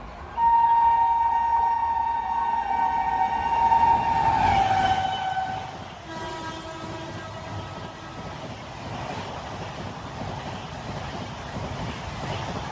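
Passing train's locomotive horn sounding one long blast that drops in pitch about four and a half seconds in as the train goes by. A shorter, fainter blast follows, then the steady rush and rumble of the passing train.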